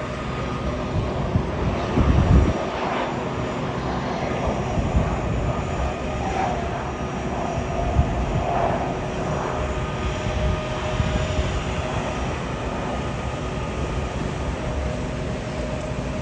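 Aircraft engines at an airport, a steady rumble with faint steady whining tones. A brief low thump comes about two seconds in.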